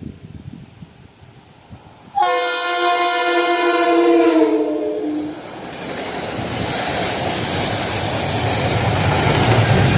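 Passenger train's multi-chime horn sounding for about three seconds, starting suddenly about two seconds in, its chord of tones sagging slightly in pitch. Then the steady noise of the train running past builds.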